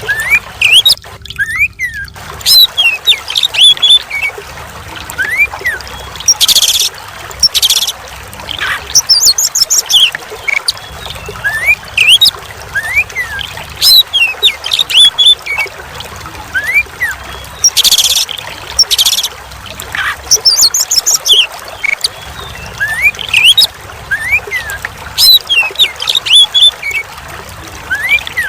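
Oriental magpie-robin (kacer) singing a varied song of short whistled notes, slurs and chirp trills in repeated phrases, over a steady sound of running, trickling water.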